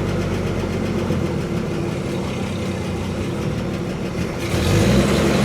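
1962 Chevy C10's freshly rebuilt 235 straight-six running as the truck moves off slowly in first gear; about four and a half seconds in it gets louder and deeper as it takes more throttle. The engine is noisy, which the owner expects to quiet down once the rockers are adjusted.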